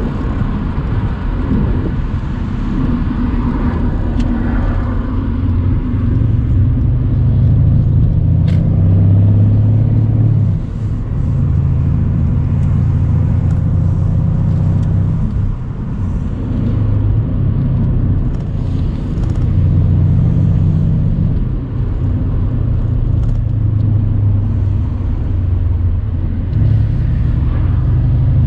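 Mercedes-AMG C63 A205 Cabriolet's 4.0-litre twin-turbo V8 running at a steady drive on the road, with a deep engine drone. The drone dips briefly a few times.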